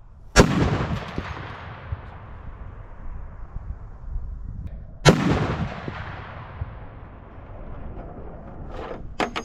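Two shots from a Barrett M82A1 semi-automatic .50 BMG rifle, about five seconds apart, each followed by a long rolling echo that fades over several seconds. A couple of short, sharp clicks come near the end.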